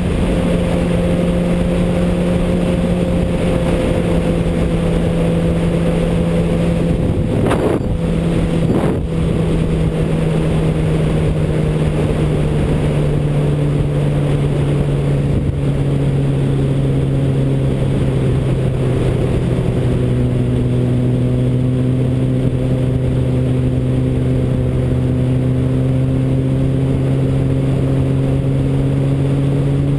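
Car engine running at a steady, sustained speed, its drone sinking slightly in pitch and then holding. Two brief knocks come about a third of the way in.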